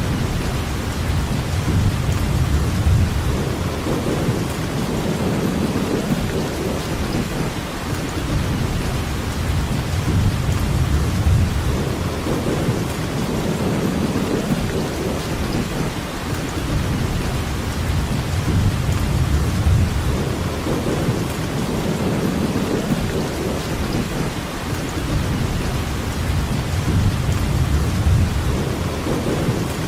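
Steady rainfall, with a low rumble that swells and fades about every eight seconds.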